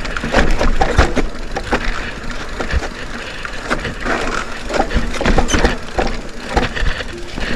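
Mountain bike riding over a rough dirt trail: tyres crunching on gravel and twigs, with irregular clattering knocks as the bike jolts over bumps.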